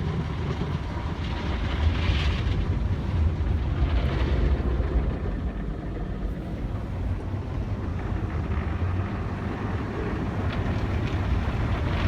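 Automatic car wash equipment heard from inside the car: a steady low rumble of machinery with a hiss of water over it, swelling briefly about two and four seconds in.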